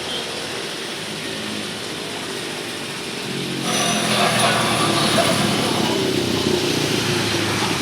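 An engine running steadily; about three and a half seconds in it gets louder, with a hiss laid over it. It cuts off suddenly at the end.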